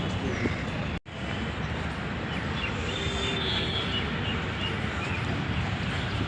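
Steady outdoor background noise with a low rumble, which cuts out for an instant about a second in.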